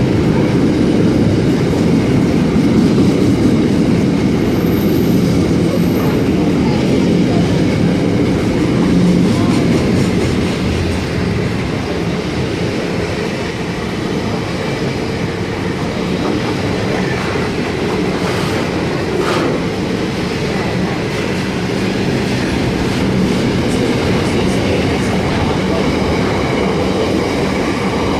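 Wagons of a long steel freight train rolling past at speed: a steady rumble of steel wheels on the rails, with a few clicks from the rail joints.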